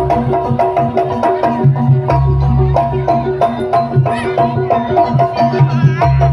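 Jaranan ensemble music: hand drums beating a fast pattern over struck metallophones repeating a short tune, with low gong tones swelling and fading.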